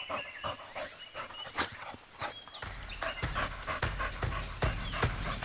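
Wild animal sounds: a quick run of short, breathy, sharp calls with brief rising squeaks, joined by a steady low rumble about two and a half seconds in.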